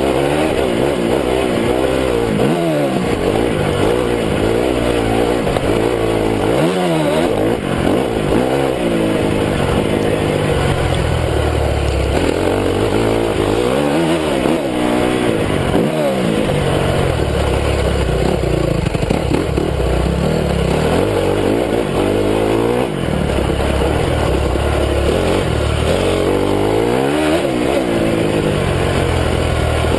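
Honda CRF250 motocross bike's single-cylinder four-stroke engine, heard close from a camera mounted on the bike, revving up and dropping off again and again as it is ridden hard round a track.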